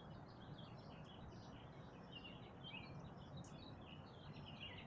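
Faint birdsong: many short chirps and twitters, one after another, over a low background hum.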